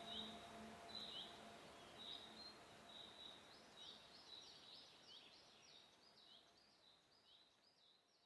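Faint birds chirping: short high notes with a falling flick, repeating and crowding together towards the middle, while the last low ringing of an instrument dies away within the first second or so. Everything fades towards silence.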